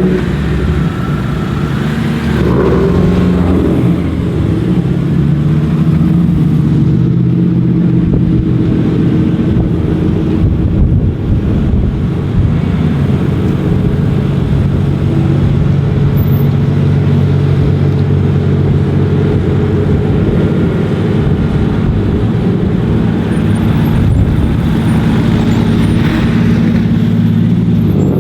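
A car engine running at a steady low idle, its pitch shifting slightly a few seconds in and briefly revving near the end.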